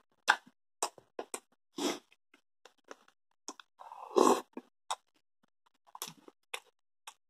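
Close-up eating sounds of a person with a mouthful of creamy pasta: wet chewing and lip smacks in many short clicks, and a louder mouth sound about four seconds in as a spoonful goes in.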